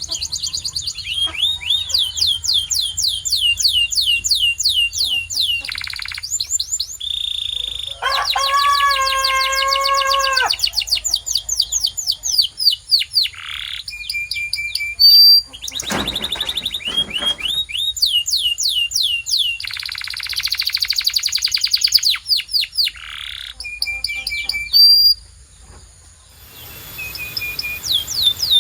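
Canary singing: long, fast trills of rapidly repeated high notes that sweep downward, broken by short held whistles. A lower, buzzier phrase comes in about eight seconds in, and the song briefly drops away a couple of seconds before the end.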